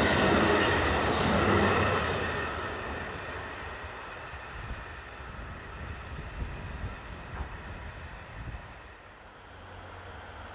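Diesel railcar passing close on the rails and drawing away: loud rail and wheel noise that fades over the first few seconds, then a few faint clicks of wheels over rail joints. Near the end a low steady engine drone sets in as a DD51 diesel locomotive approaches.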